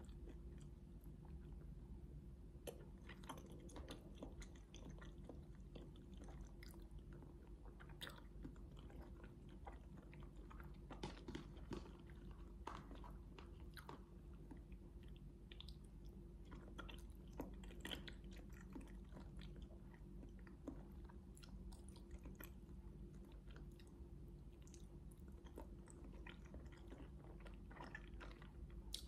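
Faint, close-miked chewing of grilled chicken satay: soft, irregular mouth clicks and small crunches scattered throughout, over a low steady hum.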